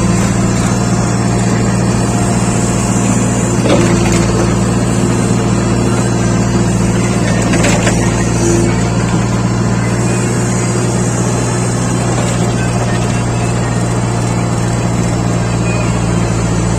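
Heavy diesel engine running steadily at an even pitch, with a couple of faint knocks along the way.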